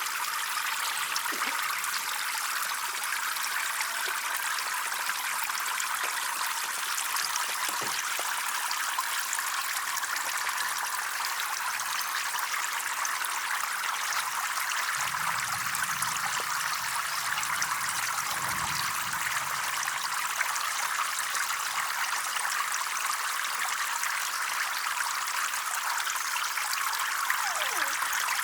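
Water running and trickling steadily, as in a small flowing stream.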